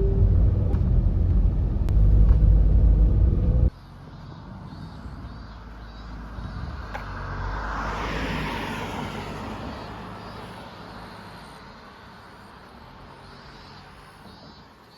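Low vehicle rumble that cuts off abruptly about four seconds in, then a quieter swell of vehicle noise rising and fading away, like a car passing.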